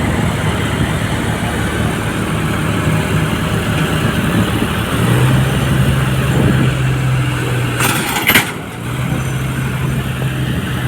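Tractor engine running steadily with a low hum, and a short, loud burst of noise about eight seconds in.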